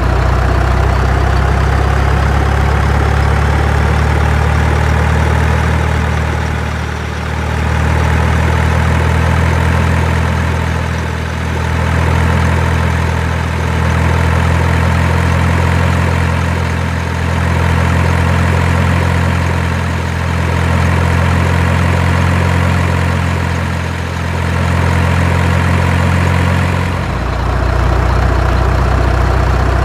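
Heavy engine idling steadily, its level dipping gently every three to four seconds.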